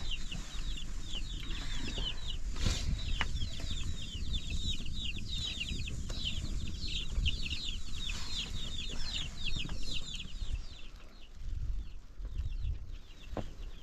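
Chicks peeping: many short, high, falling chirps overlapping one another, dying away about ten seconds in, over a low rumble.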